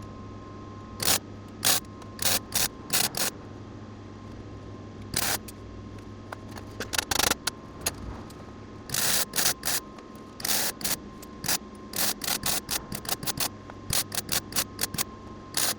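A welder laying a run of short tack welds on a steel tubular front-end frame: about two dozen brief bursts of crackle at irregular intervals, over a steady low hum.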